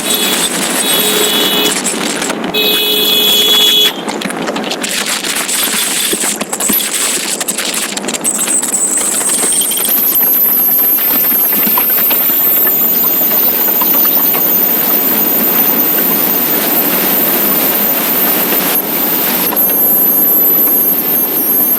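Motorcycle on the move, heard on an on-board camera: steady rush of wind and road noise with the engine under it.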